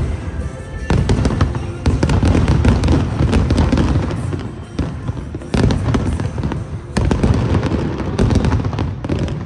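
Aerial fireworks barrage: dense crackling bursts over a low rumble, with loud booms about one, two, five and a half, seven and eight seconds in.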